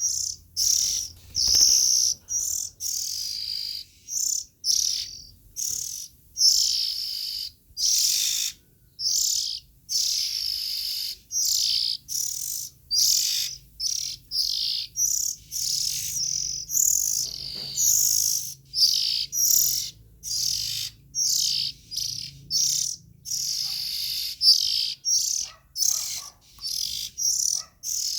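Young oriental magpie-robin singing: a continuous run of short, high phrases, more than one a second, each separated by a brief gap.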